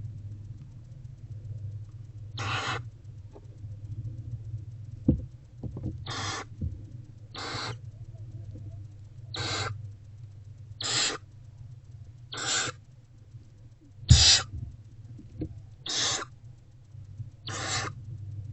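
Barn owlets giving their harsh hissing food-begging calls, about nine short hisses roughly every second and a half, over a steady low hum. A couple of sharp knocks come from inside the nest box, the loudest a little after halfway.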